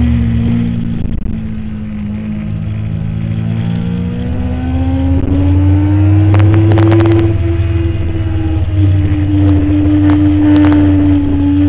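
2008 Kawasaki ZX-10R's inline-four engine at speed on track: the revs fall off for the first couple of seconds, then climb steadily from about four seconds in and hold high.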